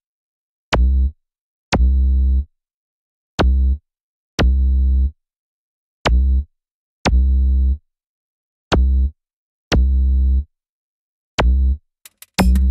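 Synthesized low, buzzy notes played in a repeating short-long rhythm with dead silence between them, each starting with a sharp click. Near the end a full electronic music track kicks in.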